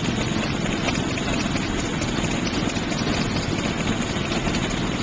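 Fire engine's engine running steadily with a low, even rumble.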